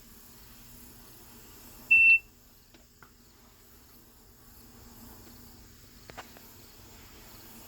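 A single short electronic beep from the control tablet as a setting is entered, about two seconds in, with a few faint taps afterwards over a low steady hum.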